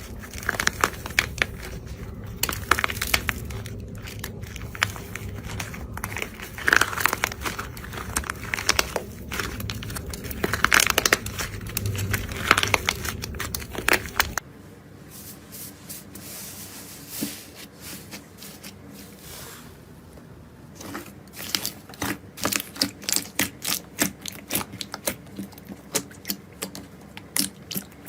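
Close-miked crackling and crunching of material being squeezed and crushed, over a steady low hum. About halfway the hum stops and the sound turns quieter. Near the end come sharp crackles, about two to three a second.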